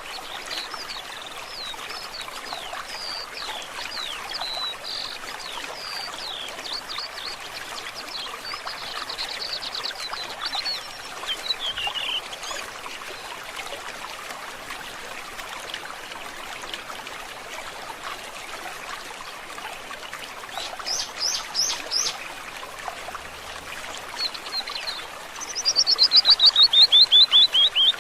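A stream trickling steadily with small birds chirping over it. Near the end one bird sings a loud, rapid trill that falls in pitch.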